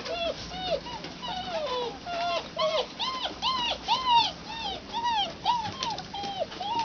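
German Shepherd puppies whining and yipping: a rapid string of short, high cries, each rising and falling in pitch, about two or three a second.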